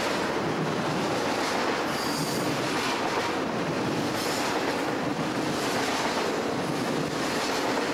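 Double-stack intermodal freight train rolling past: a steady rumble and clatter of steel wheels on rail, with brief high wheel squeals a couple of times.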